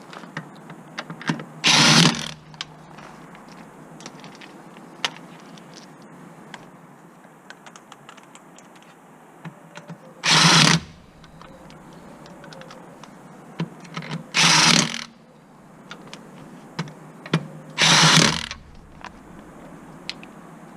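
A cordless power tool run in four short bursts, spaced several seconds apart, with light clicks and taps of hand tools and parts between them.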